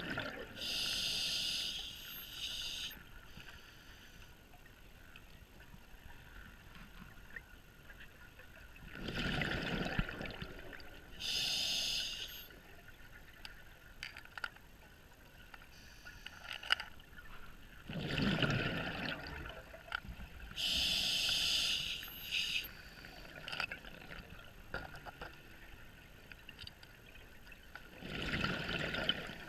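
Scuba diver breathing through a regulator underwater. A hiss on each inhale is followed some seconds later by a rush of exhaled bubbles, three breaths about nine to ten seconds apart.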